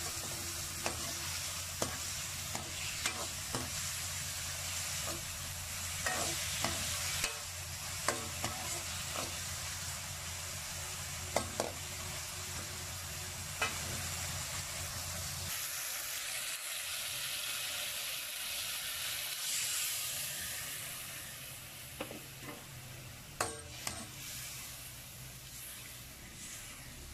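Liver pieces sizzling in a metal wok while a metal ladle stirs them, with scattered clicks of the ladle against the pan. A low hum underneath stops about halfway.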